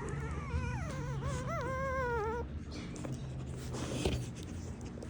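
A dog whining: one wavering whine of about two seconds that falls in pitch, over a steady low hum.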